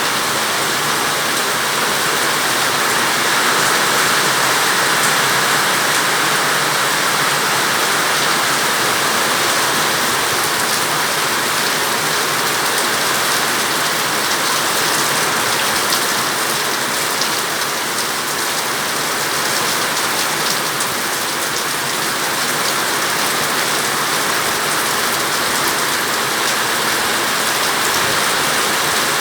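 Heavy, steady rain pouring down and pattering on surfaces.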